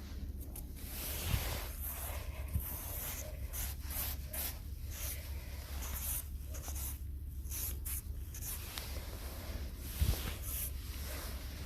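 Irregular scratching and rustling from close-up handling, with a soft thump about a second in, another a little later, and one near the end.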